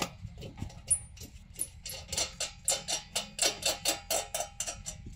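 Rapid metallic clicking and tapping from metal parts being handled during the fit of a chimney damper. The clicks are scattered at first, then run at about five a second from about two seconds in.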